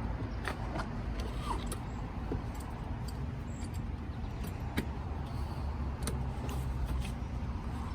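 Scattered light clicks and rattles over a steady low rumble.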